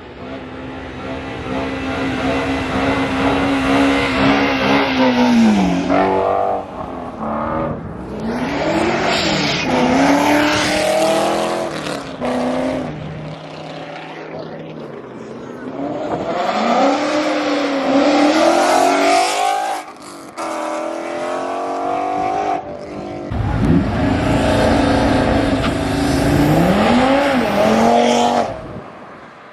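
Ford Mustang engine revved hard during a burnout. It is held at high revs, drops off about five seconds in, then climbs and falls again several times, with a steady rushing tyre noise underneath.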